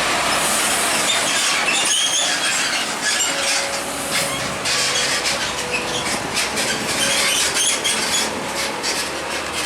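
Heavy truck or trailer truck passing close by, with steady road and tyre noise and many short clattering knocks from its body and load.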